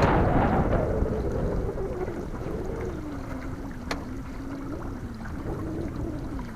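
Wind buffeting the microphone on a pontoon boat, with a gust fading in the first second, under a low motor hum whose pitch slides down and then wavers. A single sharp click about four seconds in.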